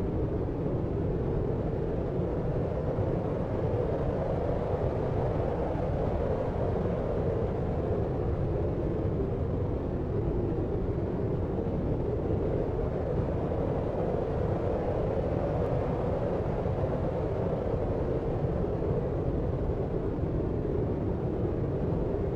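Deep white noise for sleep: a steady, even low rush, weighted toward the lower range, with no changes or separate events.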